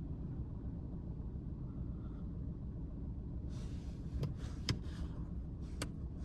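Citroen C-Elysee's 1.2 three-cylinder EB2 PureTech engine running, a steady low rumble heard from inside the cabin. A few sharp clicks come about four to six seconds in.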